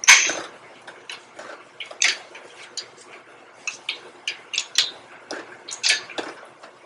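Irregular metal clicks and clanks from hand work on a tractor's wheel hub as it is worked loose, the loudest knock right at the start and a few sharper ones about two seconds in and near the end.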